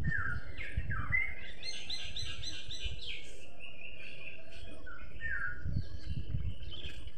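Bird chirping: a few short down-slurred chirps, and a quick run of high notes about two seconds in, over a low rumble.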